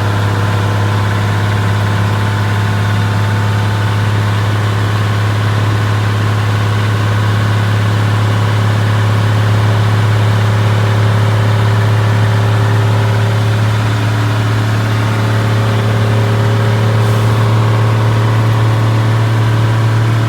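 Truck engine running at a steady, even pitch: a constant low hum.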